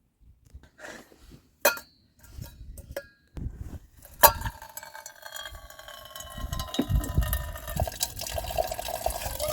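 A couple of sharp clinks, then liquid being poured into a container, the stream getting louder near the end.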